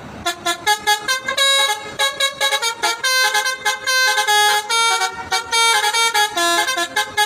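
Multi-tone musical truck horn playing a fast tune of short notes that jump between several pitches.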